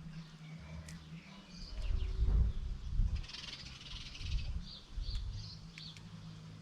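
Garden birds calling with short, high chirps, and a busier burst of chattering near the middle. Several low rumbling thumps, the loudest sound here, come a couple of seconds in.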